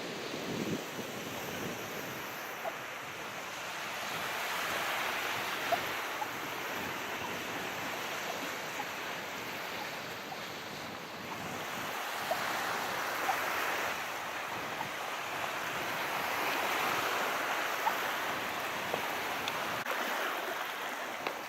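Calm sea waves washing in, the surf swelling and easing every few seconds, with a few faint clicks scattered through it.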